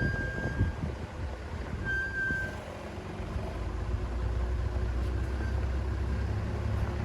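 Offroad 4x4 vehicle's engine running as it drives, a low rumble that is uneven with knocks at first and turns steady about halfway through. A short high beep sounds twice in the first few seconds.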